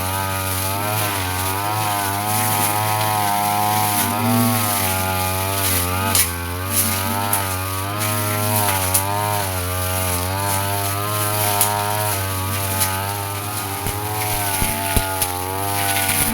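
Brush cutter engine running at high speed with its blade spinning, the pitch dipping and recovering every second or so as the blade bites into grass, with occasional sharp ticks of cut material striking.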